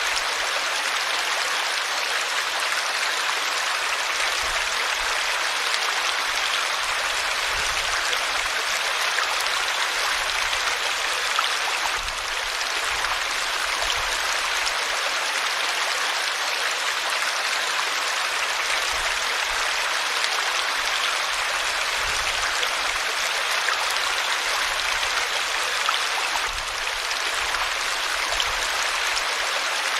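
Water flowing in a river, a steady, even noise that does not change.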